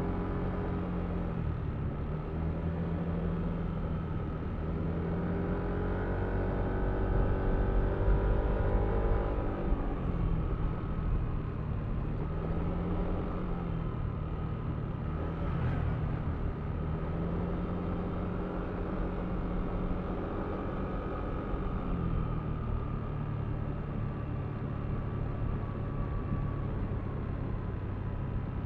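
Yamaha Aerox V3 scooter's 155 cc single-cylinder engine under way, its note climbing and dropping several times as the throttle is opened and eased off, loudest about a third of the way through.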